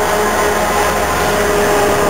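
Diesel-hauled freight train running by, a steady rumble with a few held tones.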